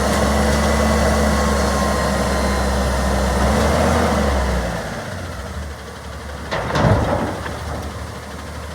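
Garbage truck's heavy engine running steadily, dropping away about five seconds in. A short, sharp clatter follows near seven seconds.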